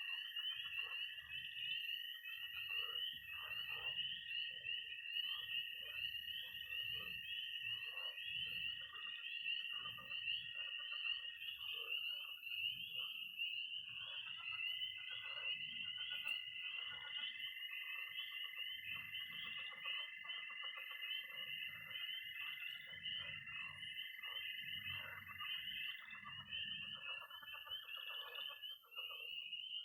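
Night chorus of frogs and toads: a dense, continuous high peeping of spring peepers, with long steady high trills of toads beneath. One trill holds for about the first twelve seconds, and two more overlap from about halfway through until near the end. Lower croaks from frogs in a pond come and go throughout.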